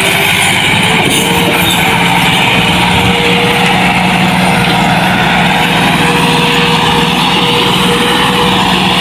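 Massey Ferguson 260 tractor's diesel engine running steadily at a constant pitch.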